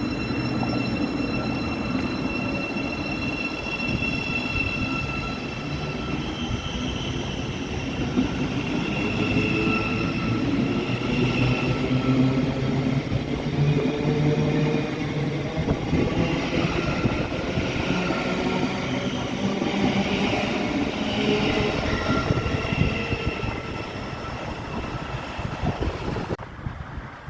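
A train running through a railway station, a continuous rumble of wheels on rail with a steady whine over it.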